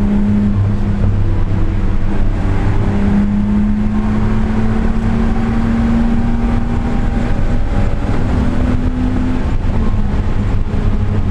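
Car engine running at a steady, moderate pitch under light load, the note rising slowly for a few seconds and then dropping back, over heavy road and wind rumble.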